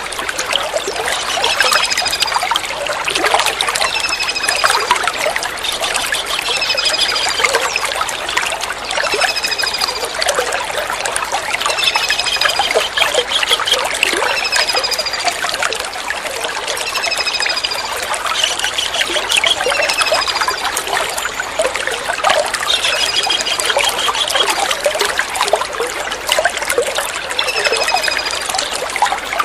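Trickling water with a kingfisher (tengkek udang) calling over it. A short, high, falling whistled note repeats every second and a half or so, with a brief trill every few seconds.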